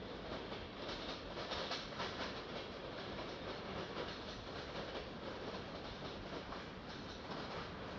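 Freight train cars rolling past on the track: a steady noise of steel wheels on rail with faint repeated clicks over the joints.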